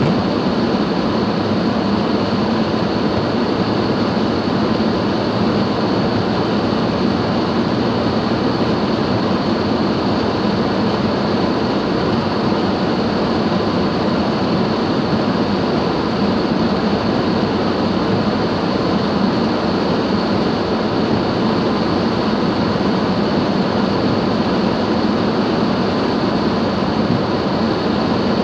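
Car driving: steady, unbroken road and engine noise.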